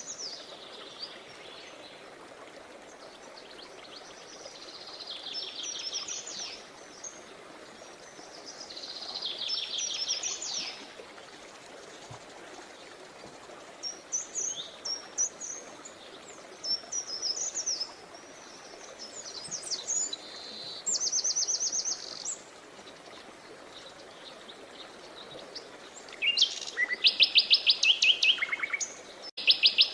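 Songbirds singing in short phrases and rapid trills every few seconds, the loudest burst of quick repeated notes near the end, over a steady background rush of running water.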